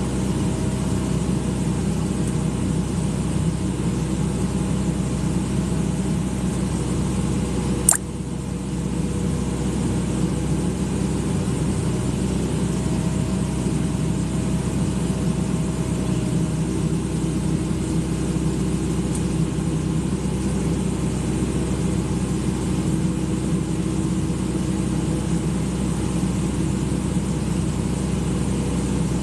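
Excavator's diesel engine running steadily, with one sharp click about eight seconds in.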